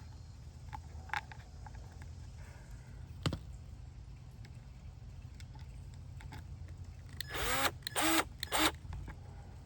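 Cordless screw gun running in three short bursts near the end, its motor pitch sweeping up and down as it drives wood screws into birch panel strips. A couple of light clicks come earlier, over a steady low hum.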